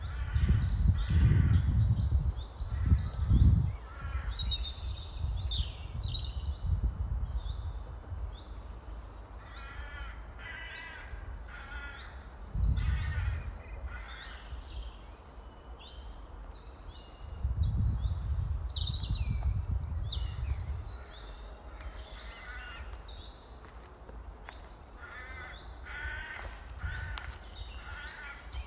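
Many birds calling and chirping, with short repeated calls throughout. Several stretches of low rumble come and go: in the first few seconds, briefly about halfway through, and again for a few seconds about two-thirds of the way in.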